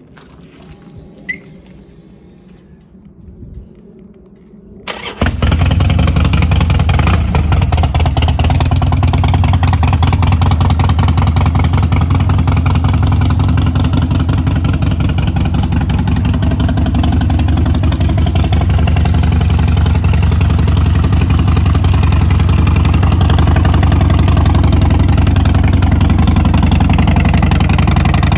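Harley-Davidson XL1200 Sportster's air-cooled V-twin starting about five seconds in, after a few faint clicks, then running steadily.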